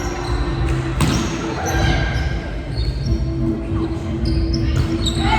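Volleyball play in an echoing gym: a ball hit sharply about a second in, with ongoing court noise and distant voices.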